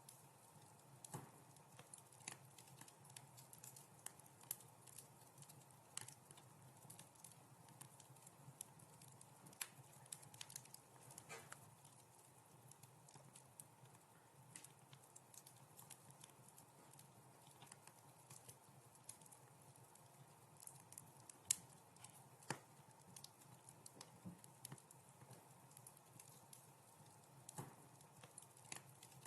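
Wood fire in a fireplace softly crackling: irregular sharp pops and snaps of varying strength over a faint steady low background, with one louder pop about two-thirds of the way through.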